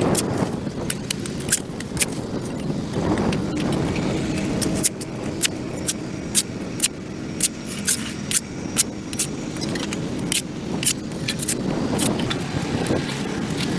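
A metal hand tool striking and scraping dirt off a concrete sidewalk: a series of sharp clinks, about two a second through the middle, over a steady low rumble.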